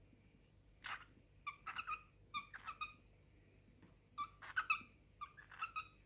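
Cockatiel calls: a single scratchy burst about a second in, then two runs of short, clipped chirps.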